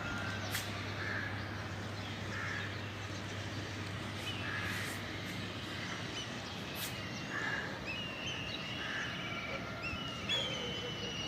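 Birds calling at dawn: short calls repeated every second or two, joined by higher chirps and trills in the second half, over a steady outdoor hiss.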